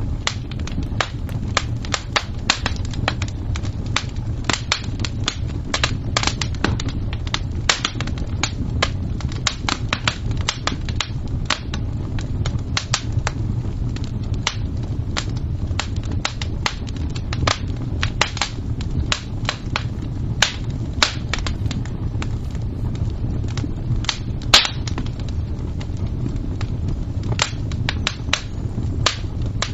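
Fire crackling: irregular sharp pops and snaps over a steady low rumble, with one louder pop late on.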